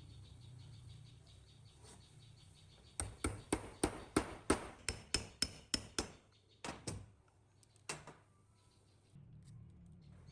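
A quick run of about a dozen sharp hammer-like strikes, roughly four a second, followed by two single knocks.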